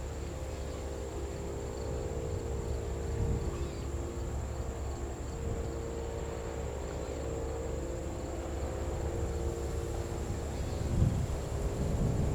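Distant jet airliner engines rumbling steadily, with a few held engine tones over the low roar, and a steady high drone of crickets. Gusts of wind buffet the microphone near the end.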